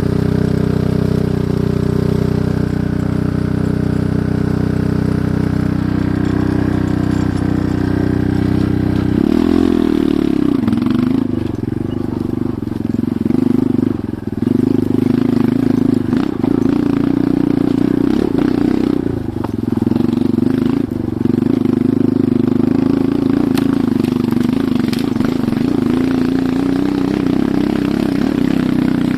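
Enduro motorcycle engine idling steadily, then revving up about nine seconds in and running on under way, its pitch rising and falling with brief dips.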